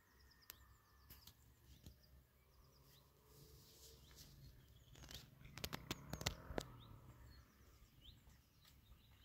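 Faint outdoor ambience with scattered small bird chirps and a low rumble. A short run of sharp clicks and knocks comes about five to six and a half seconds in.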